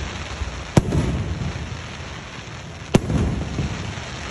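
Aerial firework shells bursting: two sharp booms, about a second in and again about two seconds later, each trailing off in a low rumble.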